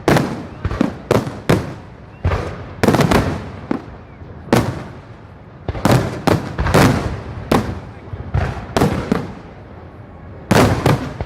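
Aerial firework shells bursting in quick, irregular succession: about twenty sharp bangs, each trailing off in echo, with a short lull near the end before a new cluster of bursts.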